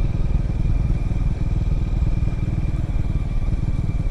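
Triumph Scrambler motorcycle engine running steadily while being ridden, a dense low pulsing beat with a faint steady whine above it.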